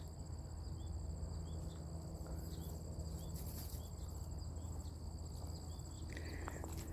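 Crickets trilling steadily in a continuous high chorus, over a steady low hum.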